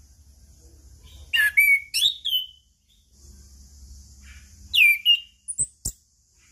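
Orange-headed thrush singing: short loud whistled phrases with sweeping, swooping notes, one cluster about a second and a half in and another about five seconds in. Two sharp clicks follow shortly after the second phrase.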